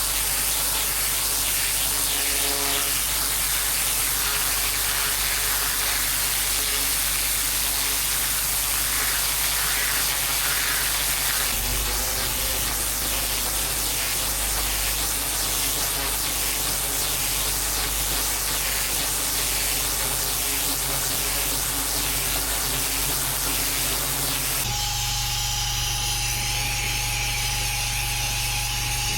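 Pressure washer jet spraying on patio paving: a steady, loud hiss of water. It changes abruptly twice, and in the last few seconds a steady whine and hum sit under the spray.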